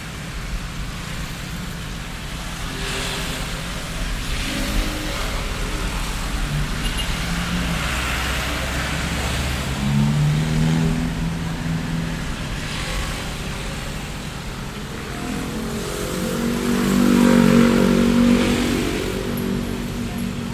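Street traffic ambience: a steady low rumble with several motor vehicles passing and pulling away, their engine notes rising and fading, one louder vehicle swelling up about three-quarters of the way through.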